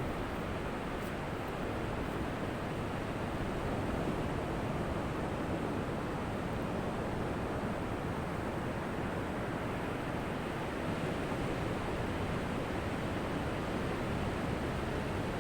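Ocean surf, a steady wash of breaking waves with no single wave standing out.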